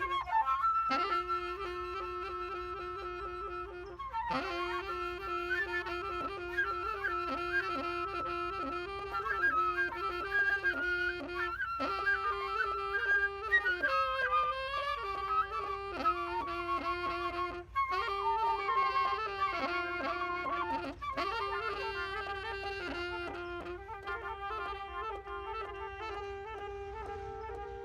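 Instrumental music from a two-player jam: a melody line over a lower note that is held and repeated with short breaks.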